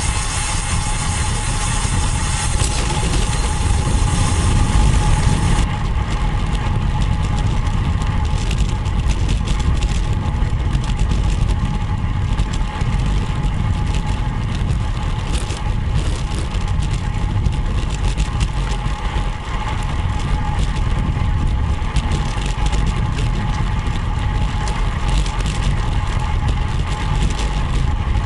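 Wind buffeting the microphone of a camera on a moving road bike, a steady low rumble with a faint constant whine above it.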